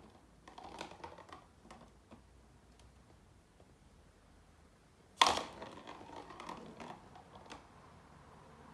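Light tapping and clattering as cats bat a ball around, with one sharp, loud knock about five seconds in, followed by a few more small taps.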